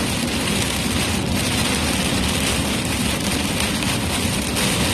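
Heavy rain beating on a moving vehicle, heard from inside the cabin together with tyre and road noise: a steady, dense hiss.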